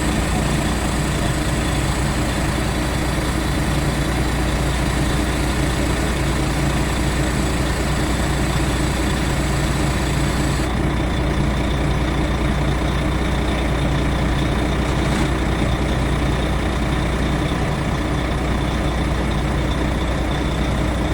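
Heavy diesel truck engine running steadily, a constant low drone. About ten seconds in, the high hiss above it drops away suddenly.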